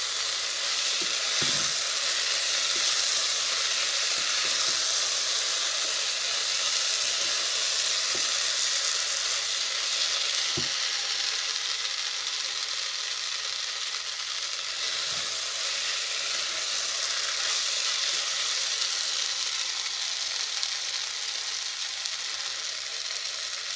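Chopped okra (bhindi) frying in oil in a kadai with a steady sizzle as the dry sabzi finishes cooking. A few light knocks of a wooden spatula against the pan come as it is stirred.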